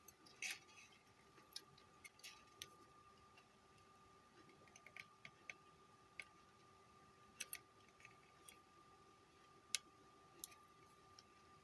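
Faint, scattered small clicks and taps from handling a car stereo's circuit board while a new amplifier IC is fitted into it, over a faint steady hum.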